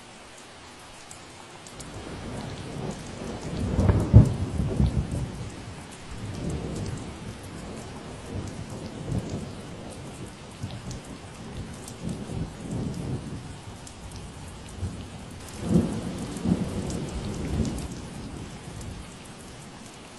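Steady rain falling, with a long roll of thunder that starts about two seconds in, peaks twice and fades out near the end.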